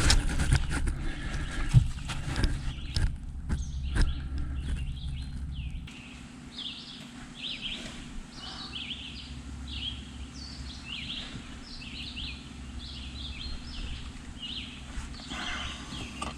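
Sharp metallic clinks and knocks from hand tools working on an engine, dense over the first six seconds, with small birds chirping over and over throughout.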